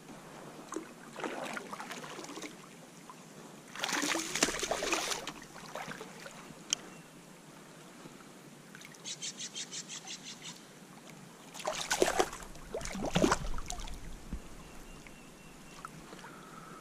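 Water splashing and dripping at a kayak in three separate bursts, the second the loudest, with a quick run of about eight light clicks in the middle.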